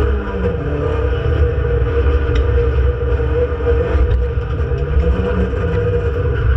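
Renault Clio Sport 2.0 182's 2.0-litre 16-valve four-cylinder engine running hard under racing load, heard from inside the stripped cabin over heavy road rumble. Its pitch drops just after the start, then rises and falls again about five seconds in.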